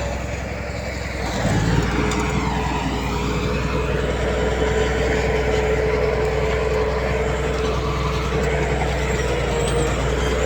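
Diesel engine of heavy earthmoving machinery running under load, with a steady whine. About a second and a half in it grows louder and stays that way.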